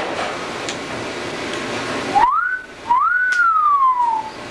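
A two-note wolf whistle: a short rising note, then a longer note that rises and slides slowly down, after about two seconds of steady background hiss.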